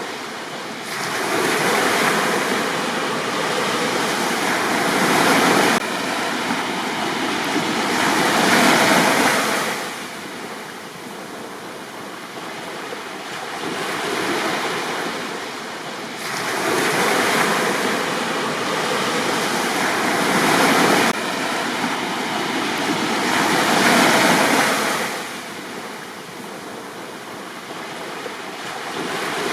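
Sea waves breaking on a beach: two long surges of surf, each building over several seconds to a peak and then washing back, with a quieter hiss of water between them.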